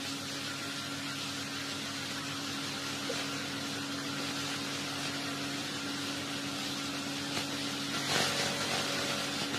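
Steady low hum with a background hiss, like room tone or equipment noise. The hiss swells briefly about eight seconds in.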